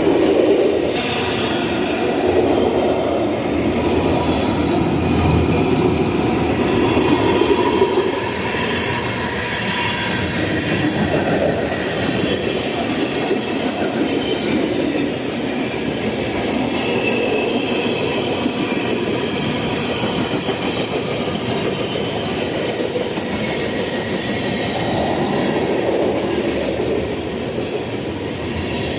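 Freight train cars rolling past with a steady rumble of wheels on rail, faint clicking over the rail joints and a thin, high wheel squeal.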